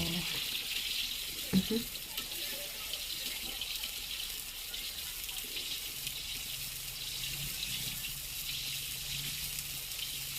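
Steady hiss of a hot wok at a street-food stall, with one brief knock about a second and a half in.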